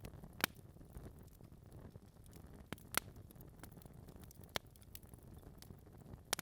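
Wood fire burning in a fireplace: a low steady rush of flames with sparse, sharp crackles and pops from the logs, four loud pops spread across the few seconds.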